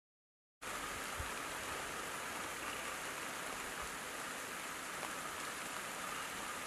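Steady rain falling on an open umbrella's fabric canopy, starting about half a second in.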